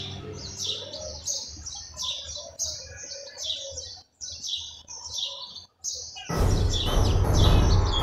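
Small songbirds chirping, a steady string of short high chirps about two or three a second over a quieter warble. About six seconds in, loud music cuts in over them.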